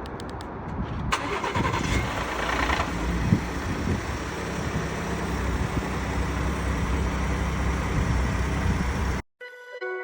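2019 Ford F-150's 3.5 L EcoBoost V6 starting from cold: it catches about a second in with a rattle for the first couple of seconds, then settles to a steady idle. The cold-start rattle is the sign of worn VCT cam phasers. Music cuts in near the end.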